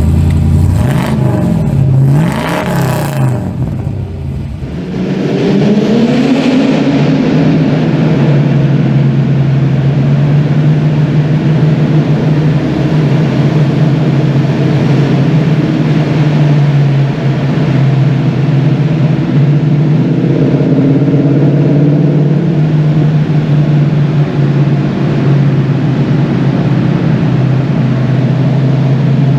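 Car engines revving, the pitch rising and falling several times over the first few seconds. About five seconds in, an engine revs up and settles into a long, steady, loud running note.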